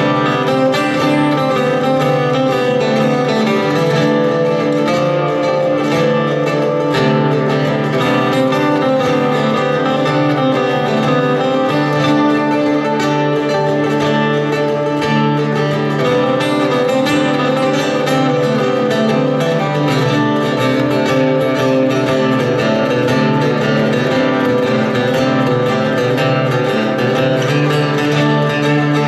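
Acoustic guitar playing an instrumental passage, steady and without singing.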